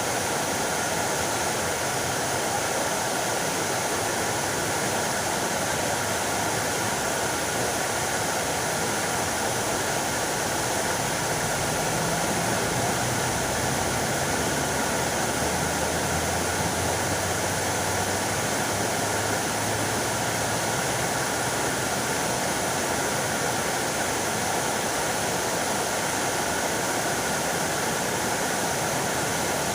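Fountain water splashing, a steady, unbroken rush.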